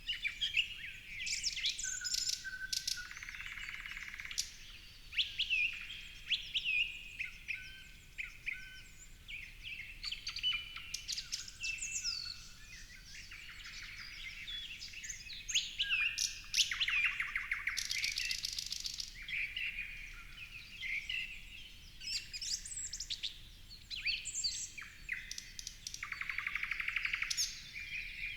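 Several songbirds chirping and singing over one another, with short sliding notes and a few quick, buzzy trills.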